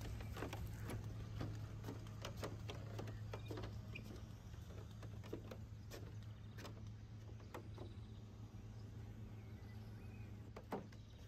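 Footsteps on wooden deck boards at a walking pace, thinning to a few scattered steps about halfway through, over a steady low hum.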